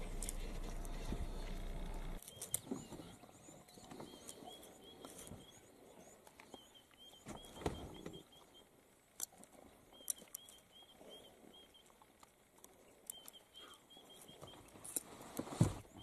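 Quiet outdoor ambience in which a bird calls in short runs of quick repeated chirps, with scattered soft clicks and one louder low thump near the end. A steady low hum fills the first two seconds and cuts off abruptly.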